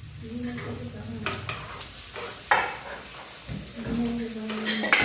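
Fiddlehead ferns sizzling in a frying pan while being stirred, with a utensil scraping and knocking against the pan several times.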